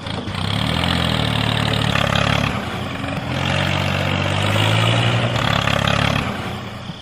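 An engine running steadily, its pitch stepping up and down a few times, then fading out shortly before the end.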